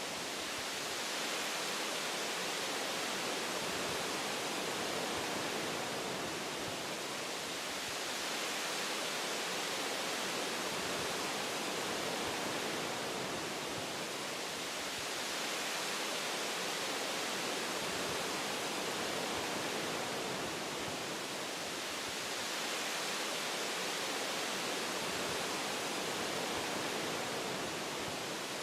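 Wind blowing through forest tree branches: a steady, even rushing hiss that eases and swells gently about every ten seconds.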